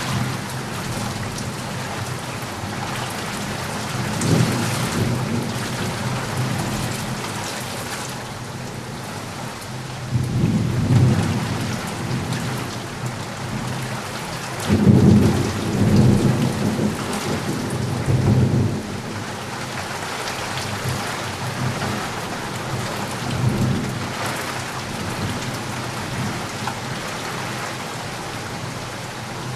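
Steady rain falling, with thunder rumbling several times, the longest and loudest rolls about halfway through.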